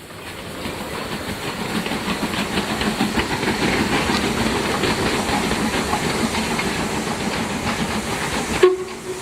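Harz narrow-gauge steam train moving, wheels and couplings clattering on the rails with steam hissing; the sound swells in over the first second. A sharp click near the end as the sound drops away.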